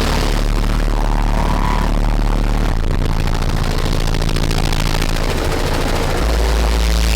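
Trunk-mounted car-audio subwoofers played at competition volume: long, deep bass notes that shift to a new pitch about three seconds in and again near six seconds, the last note the heaviest, with rattle over the top.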